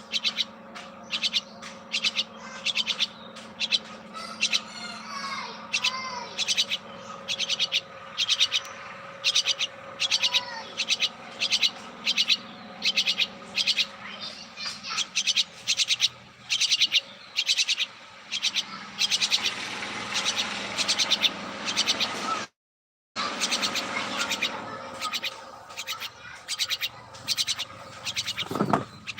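Pet birds chirping over and over, short high chirps about twice a second, over a steady low hum. The sound cuts out completely for about half a second some twenty-two seconds in.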